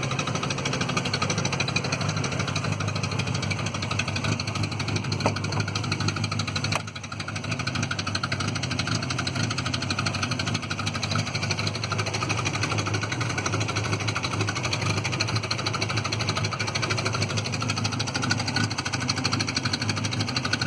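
Citroen Visa 11 RE's engine idling steadily with an exhaust leak, dipping briefly in level about seven seconds in.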